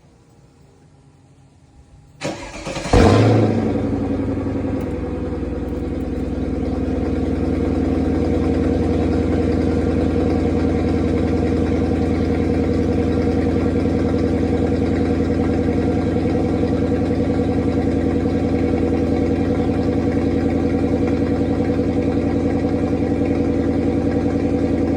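Mercedes-Benz W210 E55 AMG's 5.4-litre V8 cold-starting: about two seconds in the starter cranks briefly, the engine catches with a loud flare, then settles into a steady idle.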